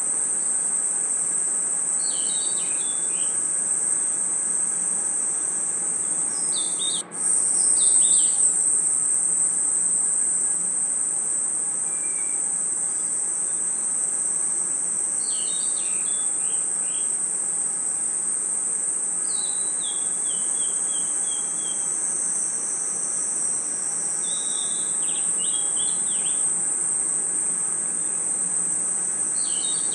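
Night chorus of crickets and other insects: a steady, high-pitched shrill trill, with short clusters of chirping calls every few seconds and a brief dropout about seven seconds in.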